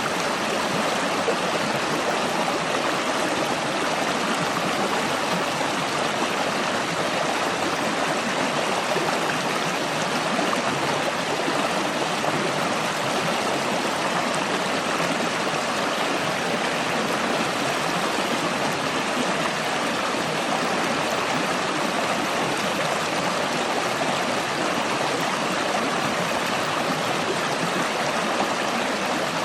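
A stream flowing: a steady, unbroken rush of running water.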